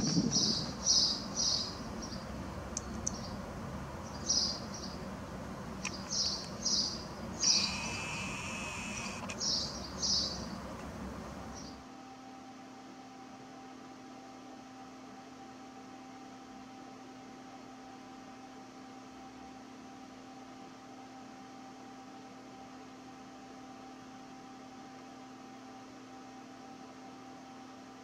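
Birds chirping, a dozen or so short high calls in small clusters, over outdoor background noise; about twelve seconds in the chirps and the noise stop, leaving only a faint steady hum.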